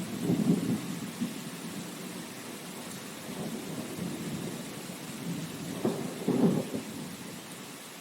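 Steady rain with low rumbles of thunder that swell twice, about half a second in and again around six seconds.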